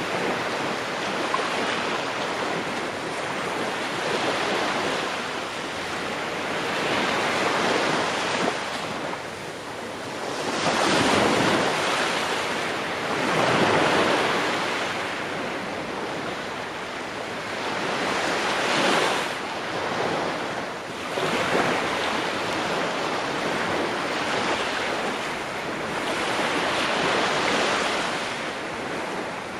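Ocean waves breaking on a shore, a continuous wash of surf that swells and recedes with each wave, the biggest breakers coming around the middle of the stretch.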